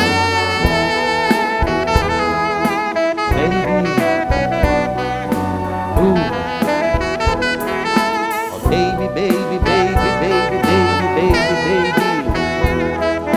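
Live band music: a melodic lead line wavering with vibrato over chords and frequent drum hits.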